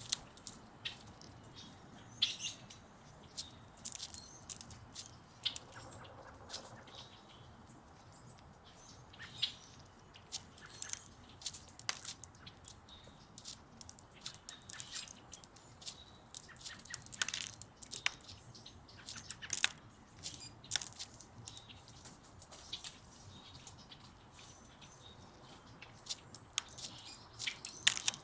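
Budgie nibbling and tearing at spinach leaves with its beak: irregular small, crisp clicks and crunches, with a few soft chirps.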